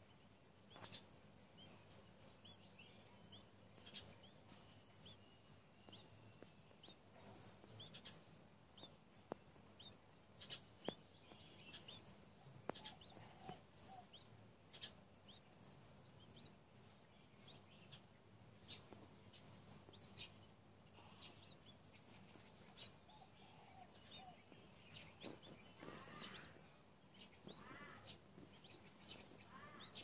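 Faint, very high-pitched bird chirps, short single notes and quick clusters of two to four, scattered irregularly throughout.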